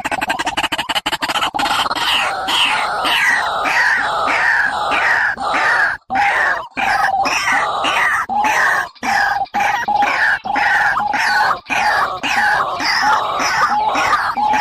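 A bird calling loudly and rapidly, about three short calls a second, each a quick falling note, as played from a recording to lure birds.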